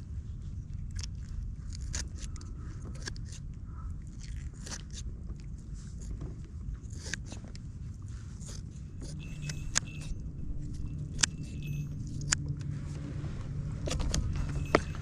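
A steady low rumble with irregular clicks and knocks scattered through it. About nine seconds in, a faint steady hum joins.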